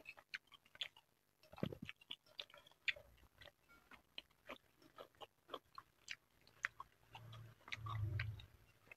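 Soft, close-miked chewing and wet mouth clicks of a person eating a spoonful of food, with many short clicks throughout and a low hum from a little after seven seconds in.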